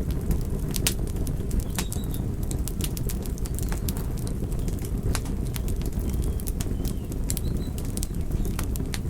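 Campfire burning with a steady low rumble and frequent irregular crackles and pops from the burning wood.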